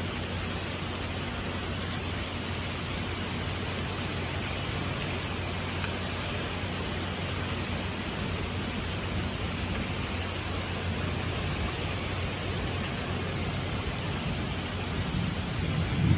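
Steady rain falling, an even hiss. A low rumble of thunder begins near the end.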